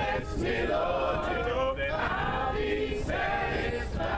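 Church choir singing a cappella, with men's voices, in a slow gospel song.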